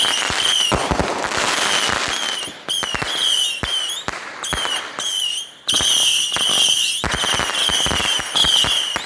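Consumer fireworks going off in quick succession: short, shrill, wavering whistles over and over, mixed with many sharp cracks and pops.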